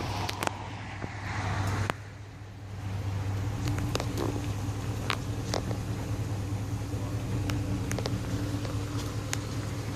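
A vehicle engine running steadily with a low hum, with scattered light clicks and knocks over it; the sound drops off abruptly about two seconds in and the engine hum comes back a second later.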